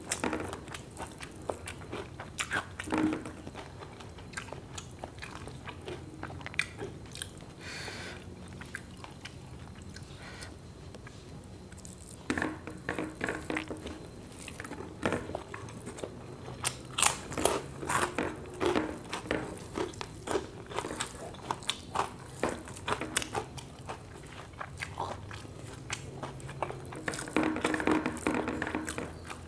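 Close-miked eating: a person chewing mouthfuls of rice and fried food eaten by hand, with irregular crunches and wet mouth clicks. These come thickest in bursts about midway and again near the end.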